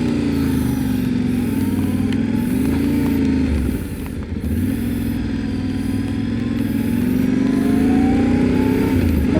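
Motorcycle engine running while riding, its pitch rising and falling with the throttle. It eases off briefly about four seconds in, then climbs steadily toward the end as the bike accelerates.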